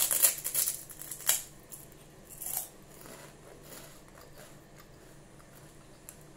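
Crisp crunching of chicharon (deep-fried pork rinds) being bitten and chewed: a run of loud, sharp crunches in the first second and a half, one more about two and a half seconds in, then fainter chewing.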